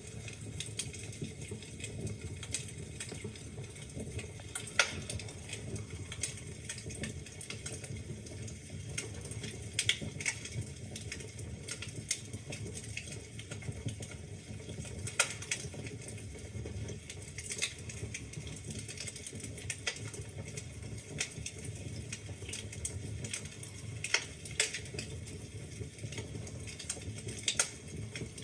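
Wood fire burning in a fireplace: logs crackling with a steady stream of small irregular snaps over a low rumble of flame, and a few louder pops scattered through.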